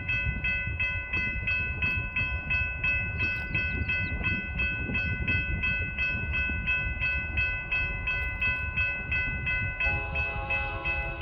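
Railroad grade-crossing bell ringing steadily about twice a second over the low rumble of a train on the tracks. Near the end a second, lower-pitched crossing bell starts ringing as well.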